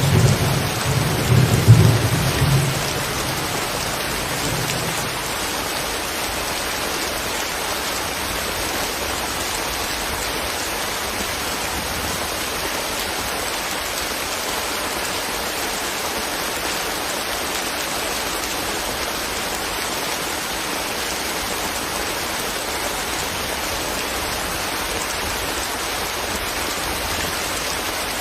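Steady rain falling, an even hiss throughout. A low rumble of thunder in the first few seconds fades away about five seconds in.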